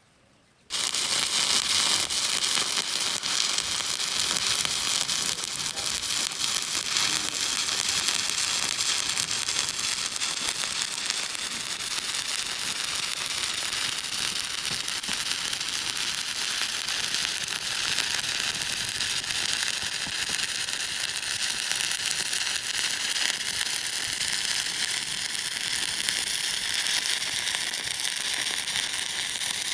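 Electric welding arc struck under a second in, then crackling and sizzling steadily as a weld bead is run.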